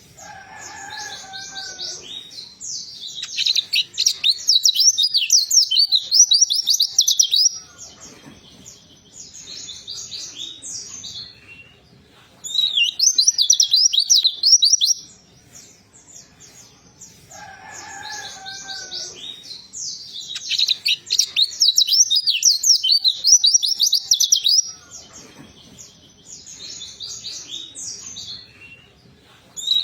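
White-eyes (pleci) singing in bursts of rapid, high twittering trills a few seconds long, with quieter chirping between bursts; the sequence repeats about halfway through. A lower, gliding call sounds briefly about a second in and again at the repeat.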